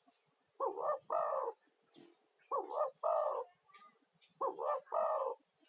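Spotted dove (tekukur) cooing: three phrases about two seconds apart, each two short coos and a longer drawn-out one. This is the male's advertising call, used to lure other doves.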